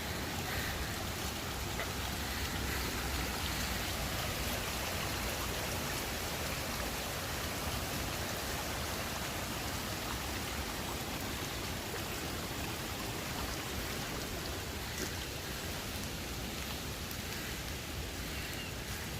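Steady, unbroken rush of water noise, from floodwater in a creek running high, rain, or both.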